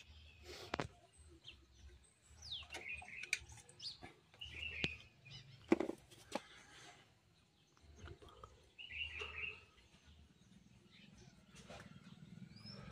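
Small birds chirping in short bursts four or five times, with scattered sharp clicks and knocks, the loudest about halfway through.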